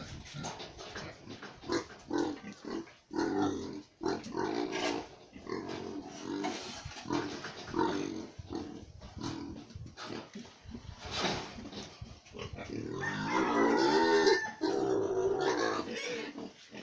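Pig grunting over and over in short bursts, with a louder, longer stretch near the end.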